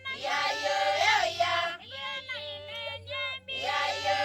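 Voices singing together in short phrases, over a steady low hum.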